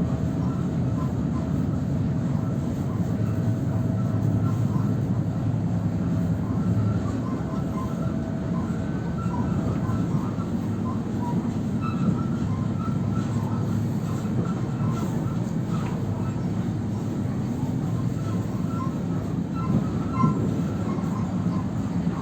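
Ivolga (EG2Tv) electric multiple unit in motion: a steady low running rumble with frequent short squeaks and creaks scattered throughout. The car creaks a lot.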